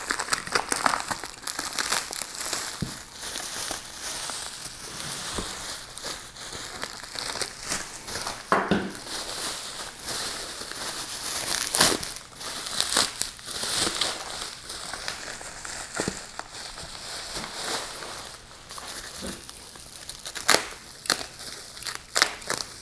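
Bubble wrap and plastic packaging crinkling and crackling as it is unwrapped from a new chainsaw, with scattered clicks and a few louder handling knocks.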